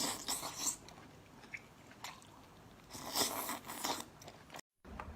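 Close-miked eating sounds: a person biting and chewing food in two spells, one at the start and a longer one about three seconds in. The sound cuts out completely for a moment near the end.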